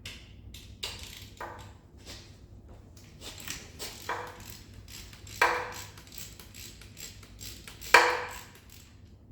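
Hand ratchet clicking in short runs as a seized fastener is worked loose, with metal tools clinking; three louder ringing metallic clinks, the loudest near the end.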